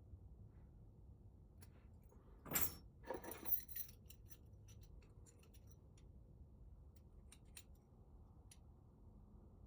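Keys and small metal lock parts clinking: a short jangle about two and a half seconds in and another just after, with light clicks and ticks in between.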